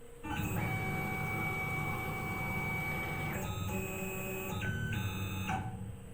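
Tormach PCNC 1100 mill's table axis jogging under stepper-motor drive, a steady motor whine with several pitches. It starts suddenly, shifts pitch twice partway through, and cuts off near the end as the table carries the base past a dial indicator.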